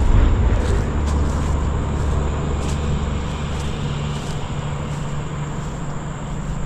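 A vehicle passing on a highway, its low rumble fading away as it goes by.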